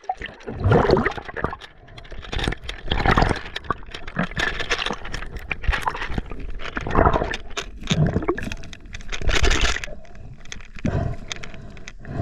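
Water splashing and gurgling close to the camera, coming in irregular surges about every one to two seconds.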